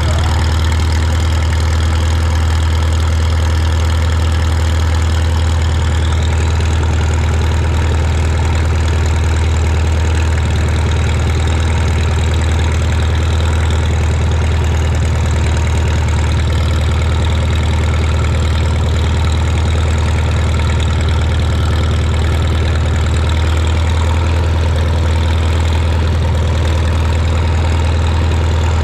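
Tractor engine idling steadily, a constant low hum that does not rise or fall.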